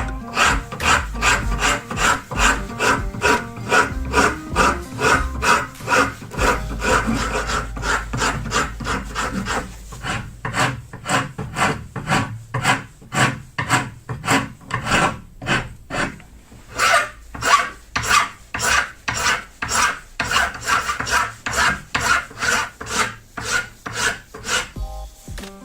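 Hand filing on the knife: quick back-and-forth rasping strokes, about three a second, kept up steadily.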